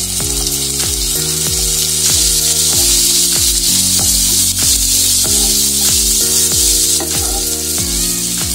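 Sliced onions and ginger-garlic paste sizzling in hot oil in a nonstick pan, stirred with a wooden spatula. The sizzle grows a little louder about two seconds in. Background music with a slow beat plays underneath.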